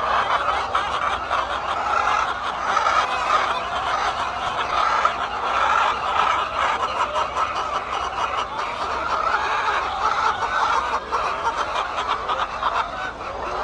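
A large flock of chickens clucking together in a chicken house, many overlapping calls making a steady, unbroken din.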